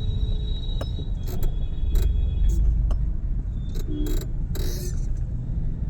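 Steady low rumble of road traffic, broken by a few short hissing bursts and clicks.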